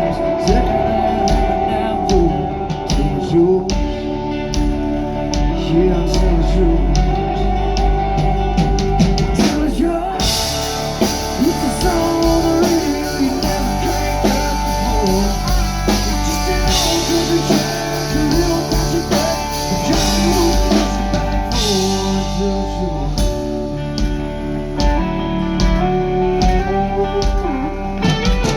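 Live country-rock band playing, with electric guitars, bass and a drum kit, in a stretch where little or no lead vocal is picked up. About ten seconds in, the drums and cymbals come in fuller.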